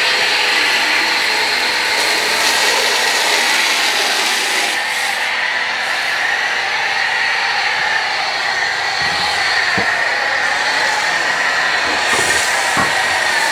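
Pressure washer running and spraying foam through a foam lance onto a car: a steady, even hiss of spray over the machine's running noise.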